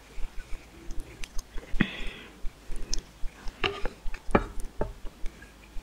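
Close-miked eating sounds from a noodle and fishball meal: chewing with sharp, scattered mouth clicks. About two seconds in there is a half-second hissy sound.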